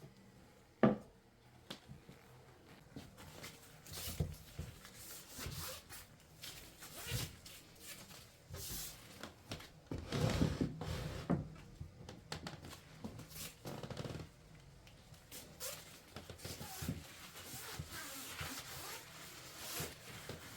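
Scattered small knocks, clicks and rubbing of objects being handled, with a sharp knock about a second in and a busier stretch of clatter about halfway through.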